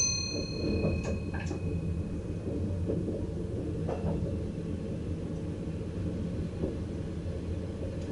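Steady low rumble inside the driver's cab of a VIRM double-deck electric train. A sharp ringing ding sounds right at the start and fades over about a second, followed by a few light clicks.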